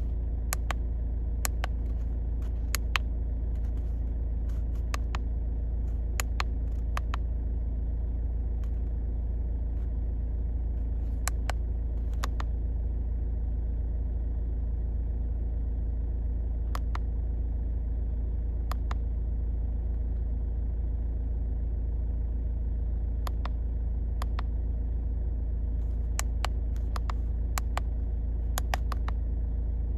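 A car engine idling steadily, with scattered sharp clicks coming singly and in small clusters.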